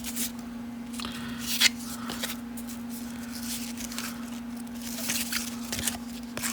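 1990 Upper Deck baseball cards being flipped and slid against one another in the hands, giving scattered soft flicks and slides, over a steady low hum.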